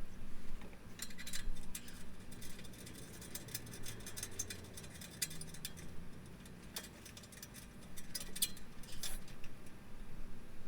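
Light metallic clicks and clinks of bolts and tools being handled, coming in irregular clusters.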